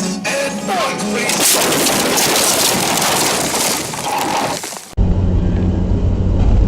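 A loud crash lasting about three seconds, a dense noisy clatter of impact and breaking, typical of a car collision on a dash-cam recording. It cuts off suddenly about five seconds in and gives way to a steady low hum of a car's engine and road noise inside the vehicle.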